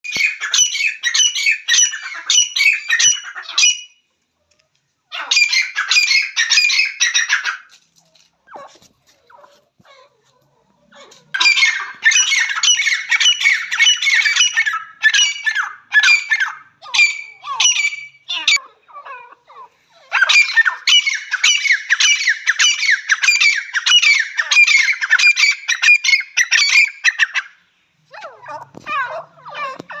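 Teetar (francolin) calling: long bouts of rapid, harsh repeated notes, each bout lasting several seconds with short pauses between. Near the end a lower-pitched, different call starts.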